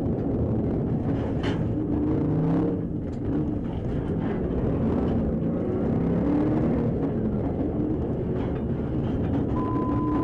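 Police car engine and road noise during a high-speed pursuit, a steady dense rumble with a short steady beep near the end.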